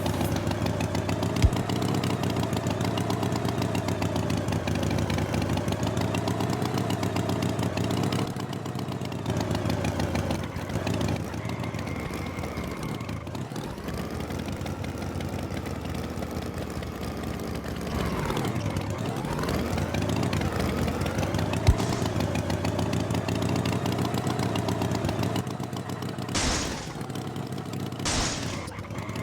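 Tractor engine running steadily, its pitch wavering and dipping twice, with two short hissing bursts near the end.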